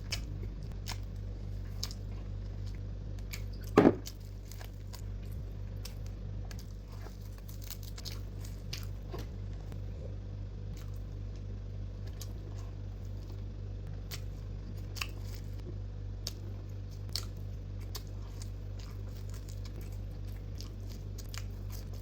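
Close-up eating sounds: chewing and small crinkling clicks of food wrappers over a steady low hum, with one sharp snap about four seconds in.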